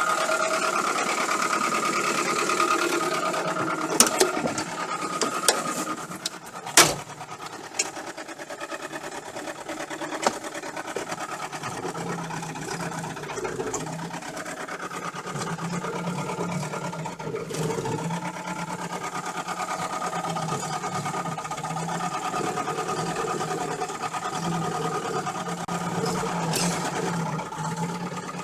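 UMZ-417 four-cylinder petrol engine running with a rapid, even, diesel-like knock from under the front timing cover, which the owner puts down to a failed camshaft timing gear. A few sharp clacks stand out about four to seven seconds in.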